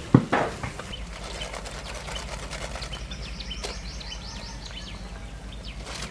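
Small birds chirping, with a quick run of high chirps about halfway through. A single sharp thump comes just after the start.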